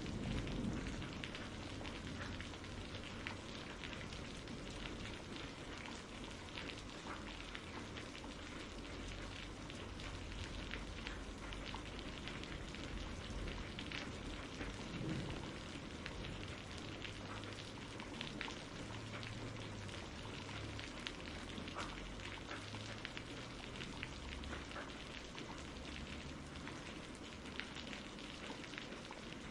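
Steady rain ambience with a dense patter of drops. A low roll of thunder is dying away in the first second.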